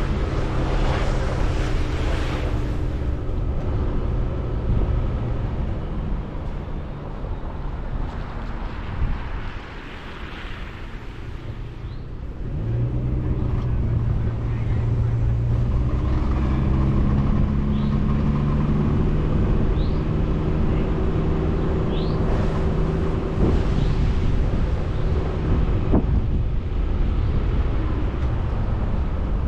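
Vehicle engine running with steady tyre and road noise while driving. It eases off for a few seconds about ten seconds in, then picks up again.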